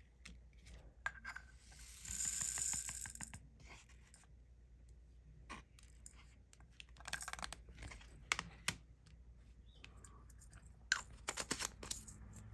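Small plastic clicks and rustling from handling diamond painting supplies: resin drills, tray and tools. About two seconds in there is a longer rustle lasting a second or so, and a cluster of clicks comes near the end.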